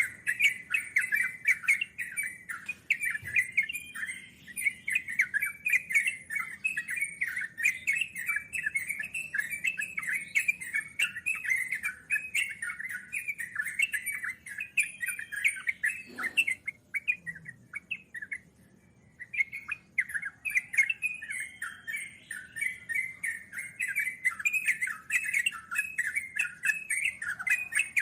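Yellow-vented bulbul song: a long, fast run of bubbling, chattering phrases (the "ngeropel" style), with a brief pause about two-thirds of the way through before it picks up again.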